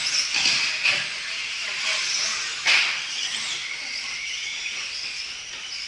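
Radio-controlled 2WD stadium trucks racing on a small dirt track: a steady high hiss of electric motors and tyres. A sharp clack comes about two and a half seconds in, with a smaller knock near the start.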